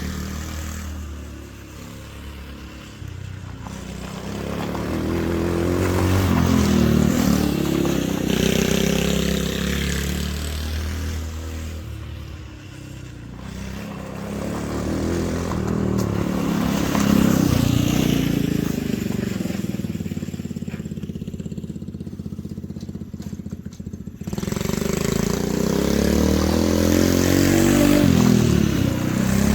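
Go-kart's small gas engine running under way, its pitch and loudness rising and falling again and again as it accelerates and slows, quietest a couple of seconds in and again about three quarters of the way through.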